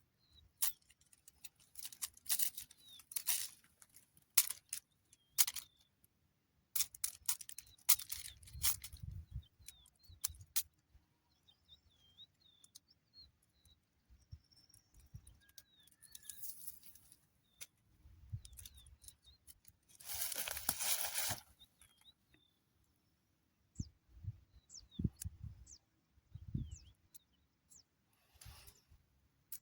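Scattered handling sounds: sharp clicks, short rustles and a few low knocks, with one longer rustling hiss about twenty seconds in. Small birds chirp faintly now and then.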